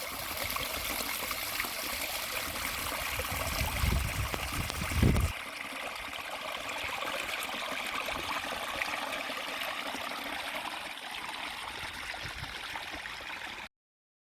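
Mountain stream running steadily over rocks, an even rushing of water. A low rumble sits under it for the first five seconds, and the sound cuts off suddenly near the end.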